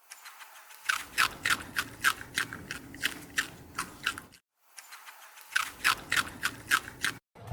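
An animal chewing with rapid crunching, scraping strokes, about four to five a second, in two runs that each cut off suddenly.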